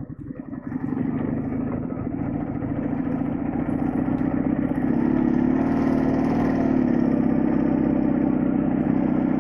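Soviet flat-twin motorcycle engine (Ural or Dnepr) running with a steady pulsing beat. It is opened up from about halfway through, holds there, and drops back at the end.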